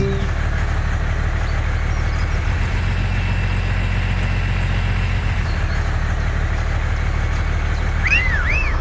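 A vehicle engine idling steadily with a low, even drone. Near the end come two short high chirps.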